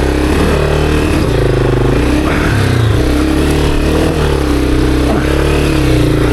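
Honda CRF250F's single-cylinder four-stroke engine running at low revs, its pitch rising and falling a little with the throttle as the bike works over rocky ground.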